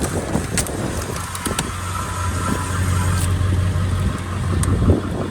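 Truck engine idling in drive at about 750–800 RPM, turning a wheel-mounted cone splitter that screws into a firewood log. The engine hum builds under the load towards the end, with a few sharp clicks and knocks along the way.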